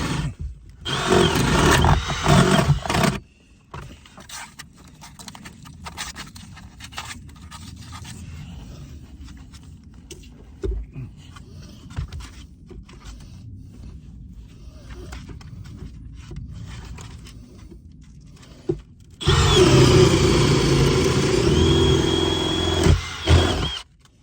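A power tool's motor runs in two bursts, one for the first three seconds or so and one of about four seconds near the end, with quieter scraping and knocking between.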